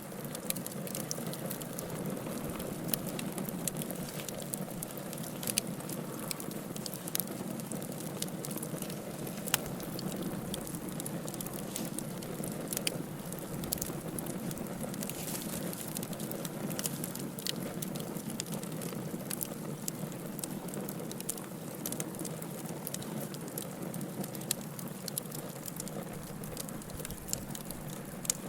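Fire burning in a fireplace: a steady crackle and hiss with scattered sharp pops, the loudest about ten seconds in.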